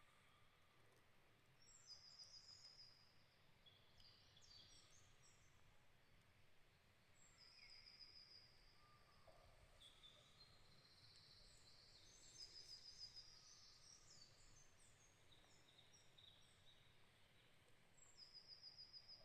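Faint birdsong in a forest: high, rapid trills and chirps from several birds, coming every few seconds, the strongest about two seconds in, around twelve to thirteen seconds in, and near the end.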